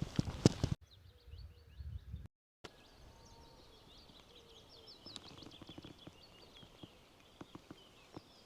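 Songbirds singing faintly, a busy run of quick high chirps and twitters, after a short burst of loud knocks and crackles in the first second that cuts off abruptly.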